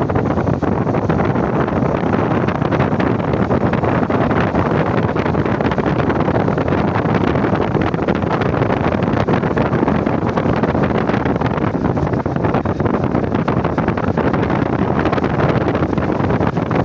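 Strong wind buffeting the microphone: a loud, steady rushing noise that does not let up.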